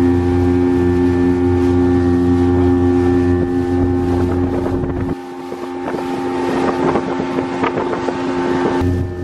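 Pontoon boat's outboard motor running steadily under way, a constant droning hum. From about halfway through, the deepest part of the hum drops away for a few seconds and a rough, irregular rushing noise takes over, before the full hum returns near the end.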